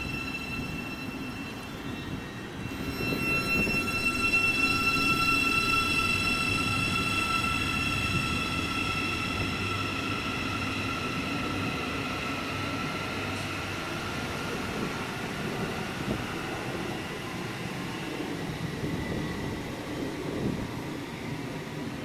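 Train running past on the line, wheels rumbling on the rails under a steady high whine. It gets louder a few seconds in, and the whine fades out near the end.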